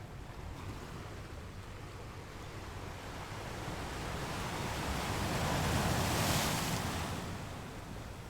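Sea waves: a steady wash of surf that swells slowly into one wave breaking about six seconds in, then ebbs.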